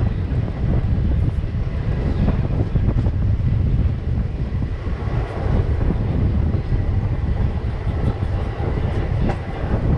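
Wind buffeting the microphone over the steady running rumble of a passenger train at speed, heard from an open door or window of the moving coach, with a few faint clicks from the wheels on the track.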